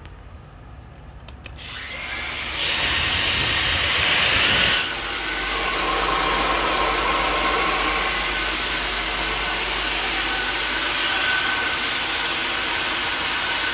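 Samsung Jet 70 cordless stick vacuum with its turbo brush, starting up about a second and a half in with a rising whine. It runs loudest for about two seconds, then settles a little lower into a steady run.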